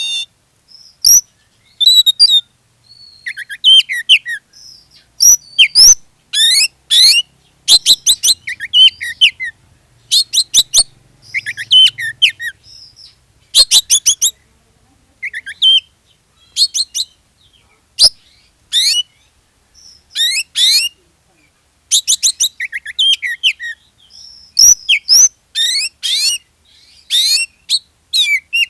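Oriental magpie-robin (kacer) in full song: loud bursts of fast, varied whistles and rapid trills, broken by short pauses.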